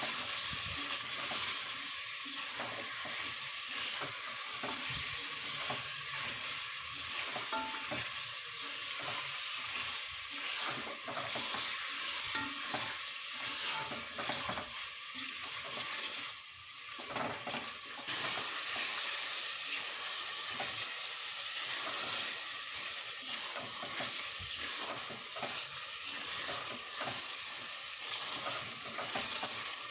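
Mutton, tomatoes and spices sizzling as they fry in a pressure cooker pot, stirred and scraped round the metal pot with a silicone spatula in repeated strokes. The sizzle dips briefly about halfway through.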